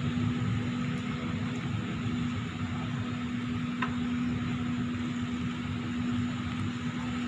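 Steady machinery drone with a constant hum over rumble, from shipyard hauling gear drawing a ship up the slipway by wire on rail cradles. A faint short chirp about four seconds in.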